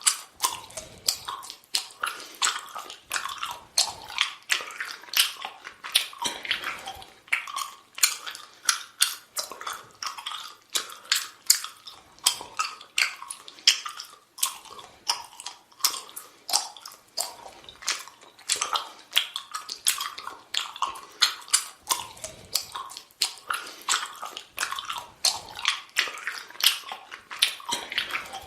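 A person chewing bubble gum: a steady run of wet, sticky clicks at about two chews a second.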